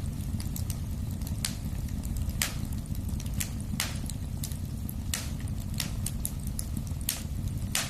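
Wood fire burning: a steady low rumble with sharp crackles and pops at irregular intervals, about one a second.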